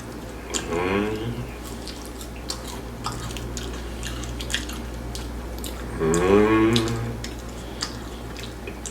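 Close-up eating sounds: scattered wet clicks and smacks of chewing fried food, with two drawn-out "mmm" hums of enjoyment, one about half a second in and one about six seconds in.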